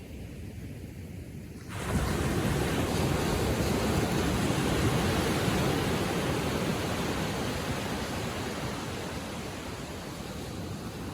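Ocean surf on the shore: a steady wash of waves that swells suddenly about two seconds in, then slowly eases.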